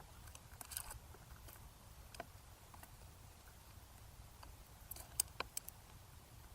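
Scattered sharp taps and clicks, with a quick cluster of them about five seconds in, over a faint steady low rumble.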